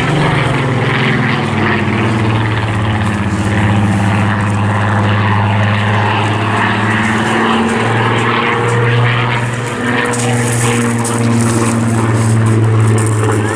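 A Spitfire's Rolls-Royce V12 piston engine drones steadily as the aircraft flies its display, the pitch shifting slightly as it moves.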